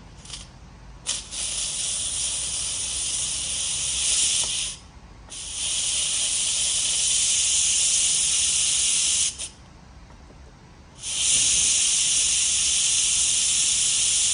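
Instant Pot pressure cooker's steam release valve venting steam in loud hissing spells, released a little at a time: a brief spurt, then three long hisses of about four seconds each with short pauses between, letting off pressure after cooking.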